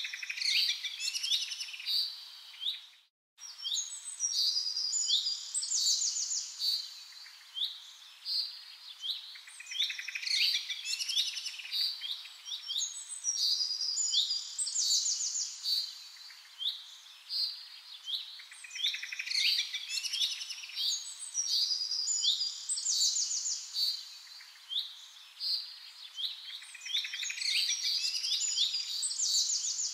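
Small birds chirping and twittering in quick, overlapping high trills and repeated phrases. The sound cuts out for a moment about three seconds in.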